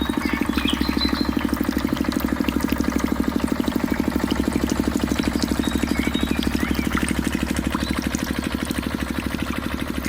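Small engine of a mini water pump rig running steadily at idle with a rapid, even chugging beat.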